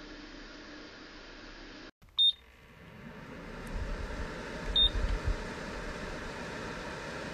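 Two short, high electronic beeps about two and a half seconds apart, with a few low thumps around the second one. A steady hiss cuts off abruptly before the first beep, and a different steady hiss follows.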